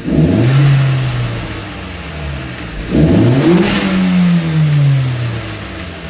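Swapped-in 1.8-litre turbocharged four-cylinder engine of an Audi 80 B3 Quattro revved twice through a custom stainless steel exhaust. There is a short blip at the start and a longer rev about three seconds in, and each time the engine settles back to idle.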